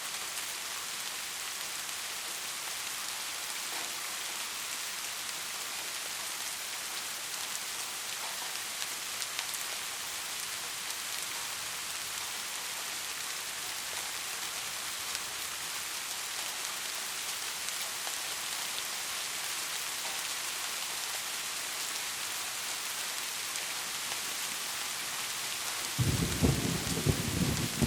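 Steady rain falling in an even hiss, with a rumble of thunder breaking in near the end.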